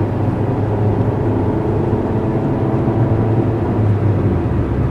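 Suzuki Aerio's four-cylinder engine and road noise heard from inside the cabin while driving: a steady drone.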